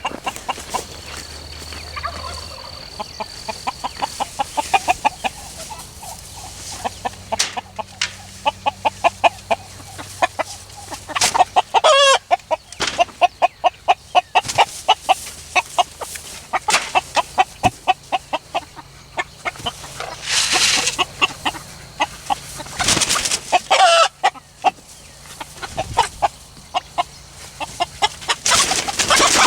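A flock of chickens clucking steadily, with a few louder drawn-out calls scattered through.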